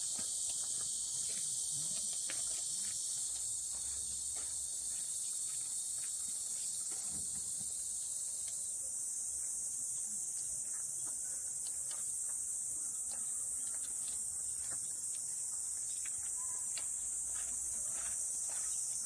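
A steady, high-pitched insect chorus, part of which drops out about halfway through, with a few faint scattered clicks.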